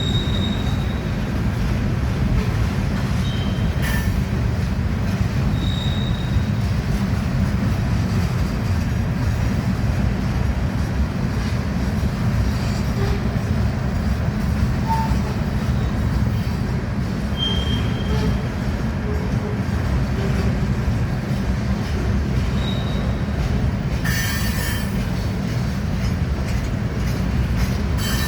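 Loaded gravel train's freight cars rolling past: a steady low rumble of wheels on rail, with short high wheel squeals now and then and a brief harsh screech near the end.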